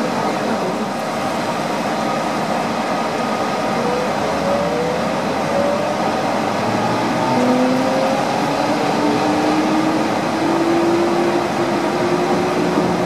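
Rubber-tyred Yurikamome automated guideway train running on its concrete track, heard from inside the car: a steady whir with motor whine that rises slowly in pitch.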